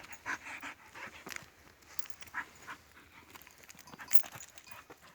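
A dog's short, irregular breathy sounds.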